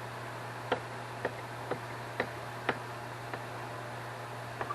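Light clicks of small metal parts, about two a second, from hand work on a carburetor's throttle blade screws and throttle shaft, over a steady low hum.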